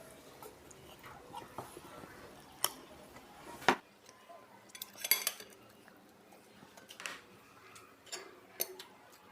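Spoons and forks clinking and scraping against plates, in scattered separate clicks, as rice and sardines are served and eaten. The loudest click comes a little under four seconds in, with a quick cluster about a second later.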